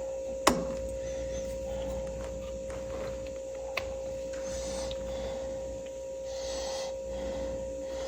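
Light handling noises of spark plug wires being fitted to a tractor distributor cap: a sharp click about half a second in, a smaller tick later and faint rubbing, over a steady high-pitched electrical hum.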